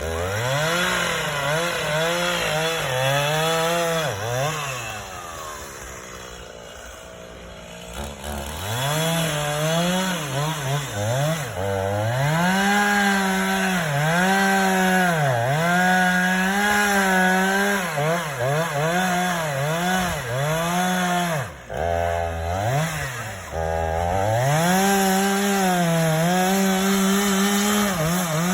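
Two-stroke chainsaw cutting into a pine tree, its engine speed dipping and climbing back over and over as the chain loads up in the wood. It eases off to a lower, quieter run for a few seconds early on. It drops out briefly about two-thirds of the way through, then revs back up into the cut.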